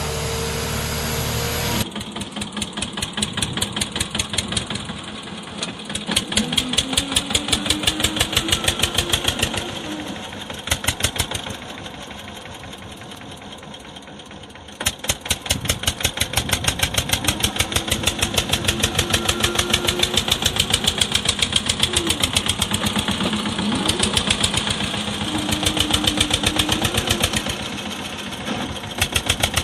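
A small engine running with a fast, even chugging beat, dropping quieter for a few seconds near the middle and picking up again.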